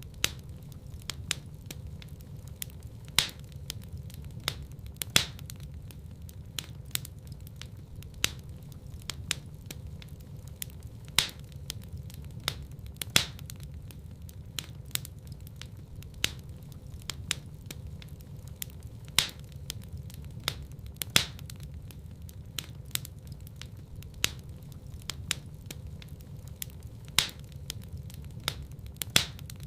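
Wood fire burning in a fireplace: a steady low rumble with frequent irregular crackles and sharp pops, a handful of them much louder than the rest.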